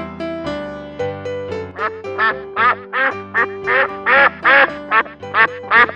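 Duck quacking in a quick series of about a dozen short quacks, starting about two seconds in, over electronic keyboard music.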